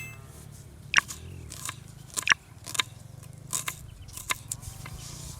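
Irregular sharp crunches and clicks, about five over a few seconds, from handling or cutting food.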